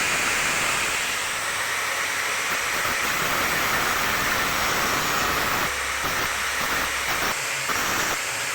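A power tool running steadily, a loud airy hiss without breaks.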